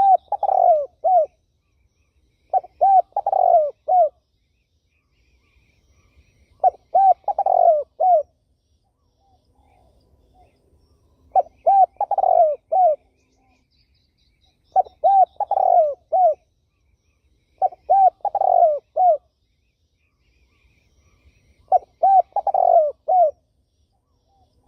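Spotted dove cooing: a short phrase of three or four hoarse, low coo notes, repeated seven times with a few seconds' pause between phrases.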